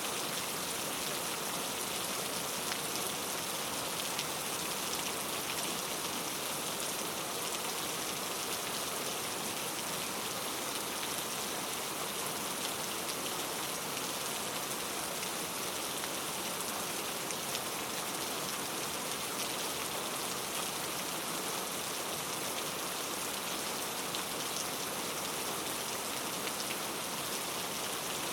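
Steady rain falling, an even hiss of many small drops with faint individual drop ticks through it.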